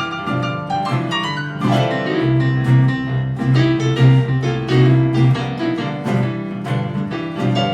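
Instrumental break in a blues song, a piano to the fore playing struck chords and runs over held low notes.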